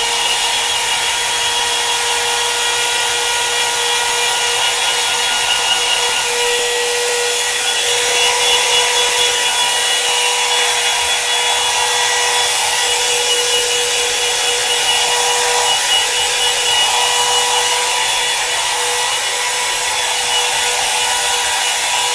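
Small handheld blow dryer running steadily on warm air: a constant high motor whine over the hiss of rushing air.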